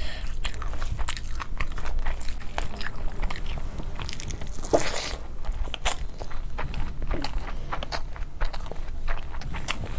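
Close-miked eating sounds of a mouthful of spicy Schezwan fried rice eaten by hand: chewing with many sharp, wet mouth clicks, several a second.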